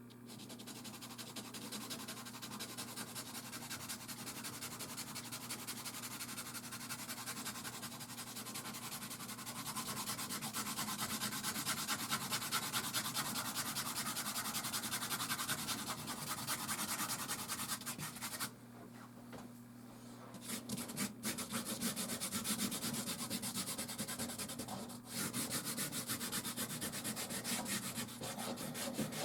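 Soft pastel stick rubbing and scratching across textured canvas in continuous quick strokes. The strokes pause for a moment about two-thirds of the way through.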